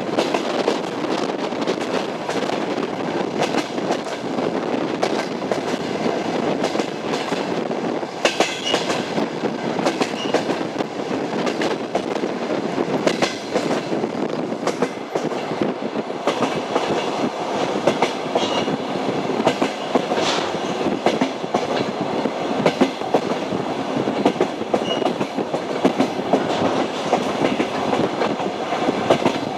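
Train running on rails, its wheels clacking over the rail joints above a steady rumble.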